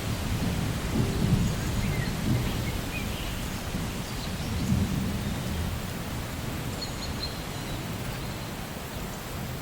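Steady rain with rolling thunder, low rumbles swelling about a second in and again near the middle. A few faint bird chirps sound above it.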